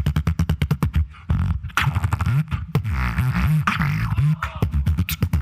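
Solo beatboxing: rapid, dense percussive mouth hits, with a low bass tone in the middle that wobbles up and down in pitch before the fast hits return.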